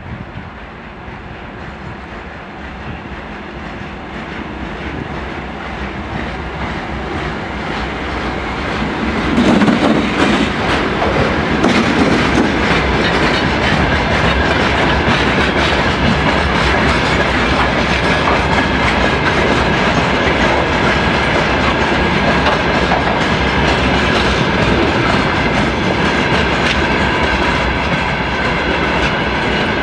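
GE C36-7i diesel-electric locomotive approaching at the head of a freight train, its engine growing louder until it passes about ten seconds in. Open freight wagons then roll past with a steady clickety-clack of wheels over the rail joints, with a thin high squeal running under it.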